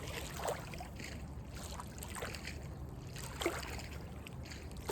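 River water lapping and splashing lightly, four or five small splashes over a steady low rumble.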